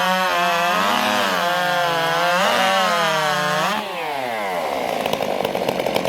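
Two two-stroke racing chainsaws at full throttle cutting through a log, their pitch wavering and dipping as the chains load in the wood. A little before 4 seconds in they finish the cut and the pitch falls away to a rattling, lower-speed run.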